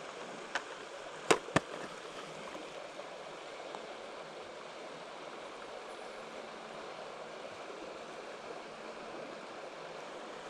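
Mountain stream water flowing steadily, with three sharp clicks in the first two seconds.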